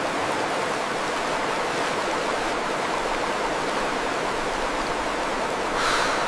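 Steady rushing noise of running water, with a brief louder swell near the end.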